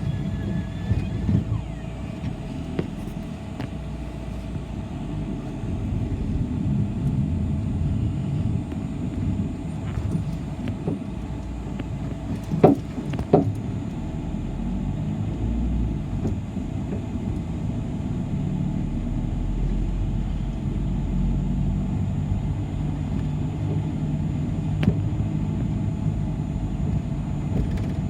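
City bus driving, heard from inside the cabin: a steady low engine and road rumble. Two sharp knocks come about halfway through, with a smaller click near the end.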